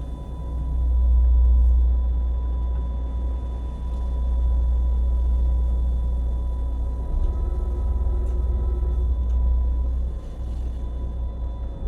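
Heavy low rumble of a boat's engine mixed with strong wind buffeting the microphone, swelling and easing, with a steady high whine over it.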